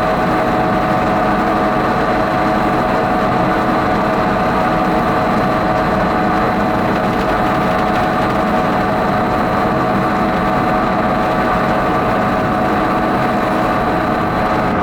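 Avió aeroplane ride running at steady speed, a constant mechanical hum with a steady whine of several held tones.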